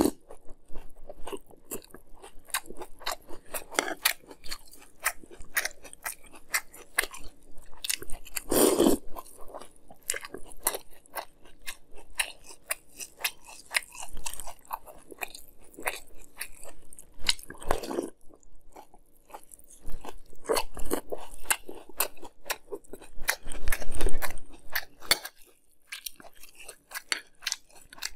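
Close-up chewing of a mouthful of Fruity Pebbles cereal in milk: a steady crisp crunching, with a few louder bursts spread through it.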